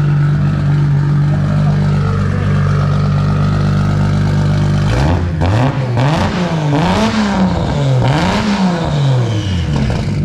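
Nissan Skyline R32 GT-R's turbocharged RB26 straight-six running through a 3.5-inch titanium straight-pipe exhaust: a steady, lumpy idle from its big cams, then about halfway through several quick throttle blips, the note rising and falling with each rev.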